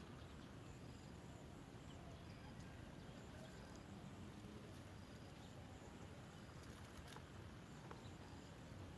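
Near silence: faint outdoor background hiss with a few faint, short, high chirps and ticks.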